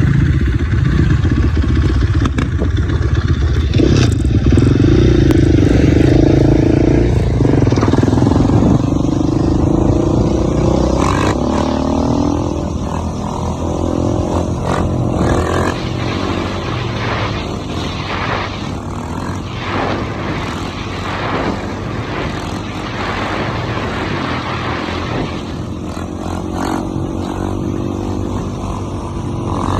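Dirt bike engine running and revving as it rides, its pitch rising and falling with the throttle. It is loudest in the first dozen seconds, then steadier and a little quieter.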